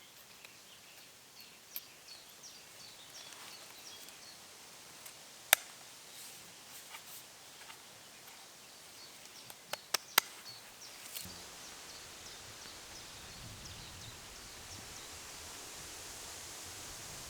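Quiet outdoor ambience with scattered faint clicks. One sharp click or knock comes about five and a half seconds in and a quick group of three about ten seconds in. After that a steady soft hiss sets in.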